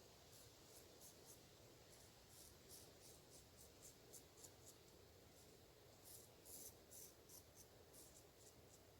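Faint, short scraping strokes of a straight razor cutting through lathered stubble, several strokes a second in quick runs.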